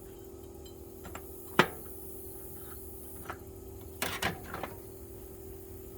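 Hard objects, tools and hardware, knocked and set down: a sharp clank about a second and a half in, a light clink a couple of seconds later, and a short run of knocks and clinks near the end.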